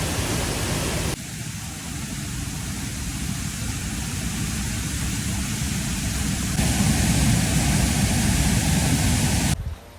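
Waterfall rushing: a steady noise of falling water that shifts abruptly in level and tone about a second in and again past six seconds, then cuts off just before the end.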